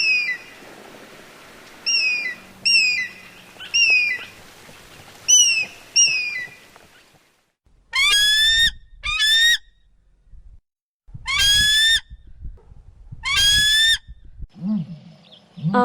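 Eagle calling: a series of short, high-pitched calls, then after a pause four longer calls that rise in pitch, over a low rumble.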